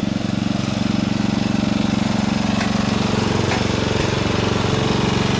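Lawn-tractor engine running steadily close by, with an even fast pulse of its firing.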